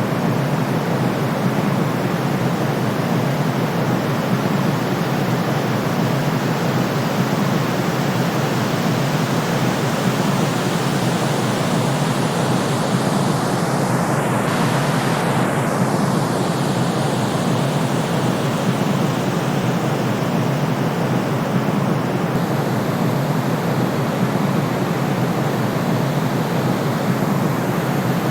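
Sleep-aid white noise: a steady, even hiss that never changes, weighted toward the low end and cut off sharply below the deepest bass.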